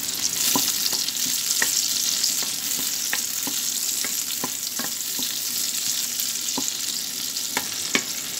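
Sliced onion and chopped garlic sizzling in hot mustard oil in a nonstick karahi: a steady frying hiss, with scattered light taps of a wooden spoon against the pan as it stirs them.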